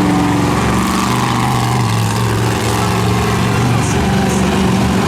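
Monster truck engine running steadily, its pitch shifting slightly up and down.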